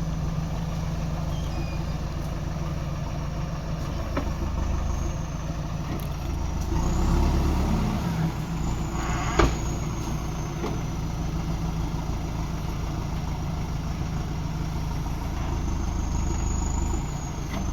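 JCB backhoe loader's diesel engine running steadily, swelling louder for a moment about seven seconds in. A single sharp knock comes about two seconds later, and there is a faint high whine that rises and falls.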